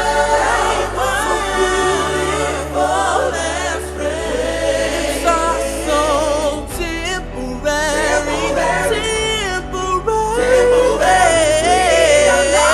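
Gospel song: choir singing wordless, wavering vocal lines over sustained low chords that change every couple of seconds.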